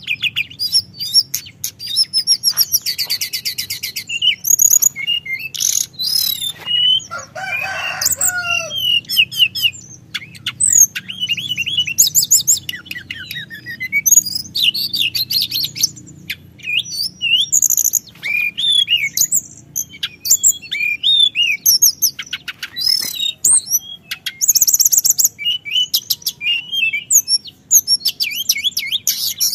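Teledekan gunung singing continuously: a rapid, varied run of high whistled notes, chirps and trills, including a fast rattling trill about three seconds in, with a faint steady low hum beneath.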